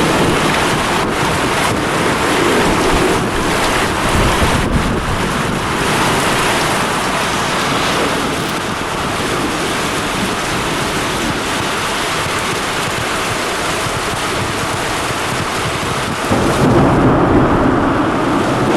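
Heavy thunderstorm rain pouring, with thunder rumbling. About sixteen seconds in, the sound becomes louder and duller.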